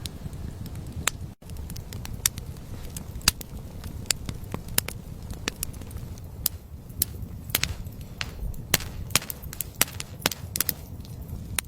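Irregular sharp crackles and snaps, several a second and unevenly spaced, over a steady low rumble.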